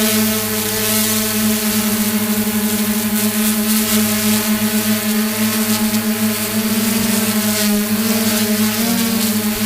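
Multirotor drone's motors and propellers buzzing in steady flight, a constant pitched hum whose pitch wavers briefly near the end.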